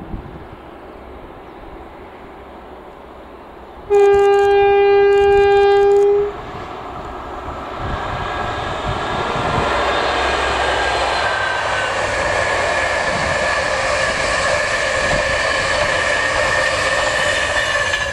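A Greater Anglia Class 90-hauled passenger train sounds one long, steady horn note about four seconds in. It then passes at speed with a building rush of wheel and rail noise, which drops away as the last coach goes by.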